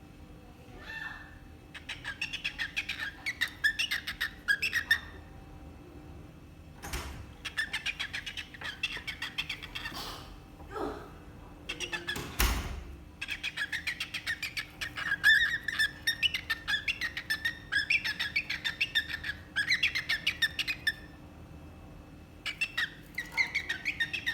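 Cockatiel chirping in fast runs of short, rapid chirps, four bursts broken by brief pauses. There is a single dull thump about halfway through.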